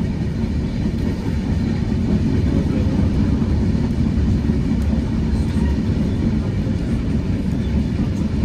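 Passenger train running at speed, heard from inside a carriage: a steady low rumble of wheels and running gear on the rails.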